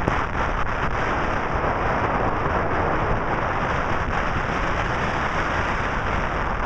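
Strong blizzard wind blowing over the microphone: a steady, dense rushing noise with low buffeting.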